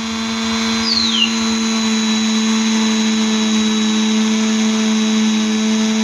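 Electric polishing tool spinning a polishing pad at a steady speed, its motor giving an even hum.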